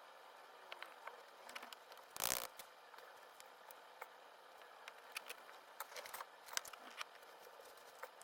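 Small clicks, taps and scrapes of painting tools being handled, over a faint steady hiss, with one louder knock about two seconds in.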